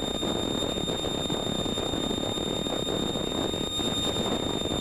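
Cessna 182 cabin noise: the piston engine and propeller running steadily, with a constant high-pitched whine over it.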